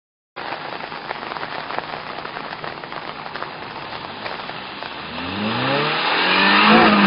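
A car engine through a loud exhaust with a failed muffler: a steady crackling, rattling noise, then from about five seconds in the engine revs up, rising in pitch and holding high.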